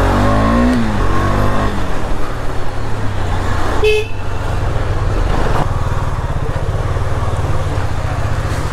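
A 250cc KTM-engined single-cylinder motorcycle engine running as the bike is ridden at low speed. Its pitch falls over the first couple of seconds as it slows, a short horn beep sounds about four seconds in, and then the engine runs steadily at low revs.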